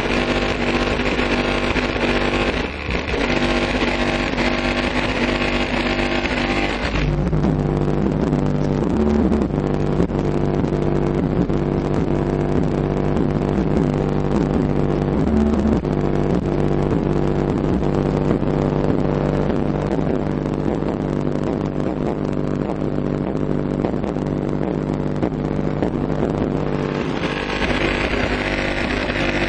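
Hip-hop track played loud through two Bravox Endurance 15-inch subwoofers in a sealed box, with heavy bass. About seven seconds in the upper range drops away and the bass dominates until near the end, when the fuller mix returns.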